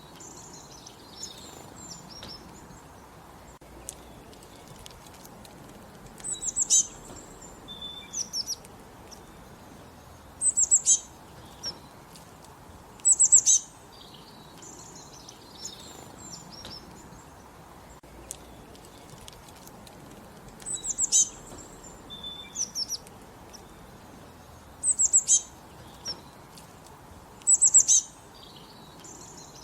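A songbird singing a short, high, bright phrase again and again every few seconds, with softer chirps in between.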